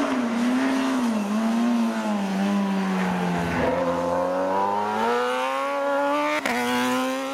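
Superbike racing motorcycle engine running hard at high revs on the hill-climb course, its pitch wavering and sagging over the first few seconds, then climbing slowly and steadily. A single sharp click about six and a half seconds in.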